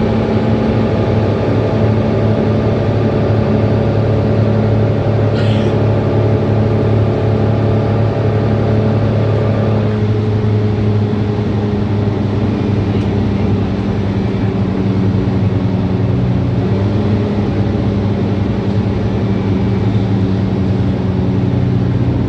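Mercedes-Benz Citaro C2 city bus engine running steadily under way. About halfway through, the upper part of its note drops away and it settles to a lower, quieter drone as the bus eases off approaching a stop.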